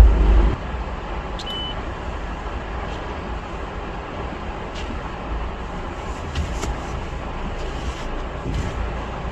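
Steady road and engine noise heard inside the cabin of a moving Honda Fit, with a heavier low rumble in the first half second.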